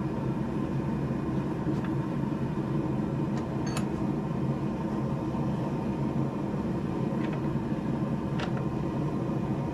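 Steady roar of a running forge with a low hum, and a few faint light taps now and then.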